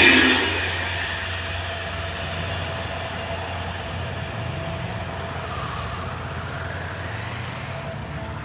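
Diesel-hauled passenger train rolling away: the loud rail noise of the last coaches falls off in the first half-second, leaving a steady low rumble of the receding train.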